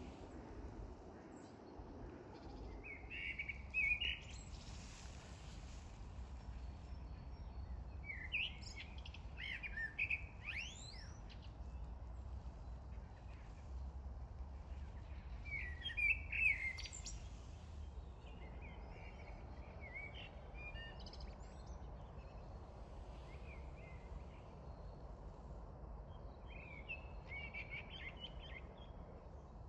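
A small songbird singing short, quick phrases of chirps every few seconds, over a low steady rumble.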